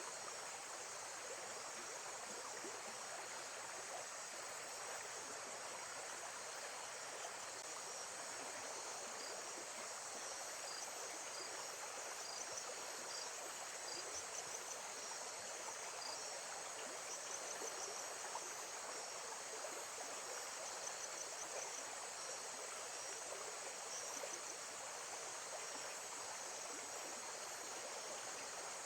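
Steady running water, with insects chirping in rapid high-pitched pulses over it.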